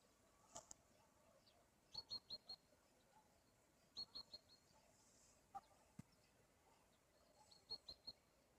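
Faint small-bird chirping: three quick runs of about four short, high chirps each, spread through a quiet room, with a couple of soft clicks between them.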